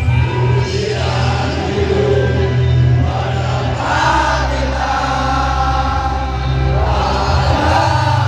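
Crowd of football supporters singing a victory anthem together, like a choir, over a heavy low rumble.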